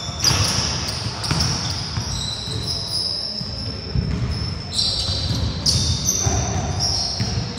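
Half-court basketball on a wooden gym floor: sneakers squeaking in short high-pitched chirps many times over, over a run of low thuds from the ball bouncing and players' footsteps.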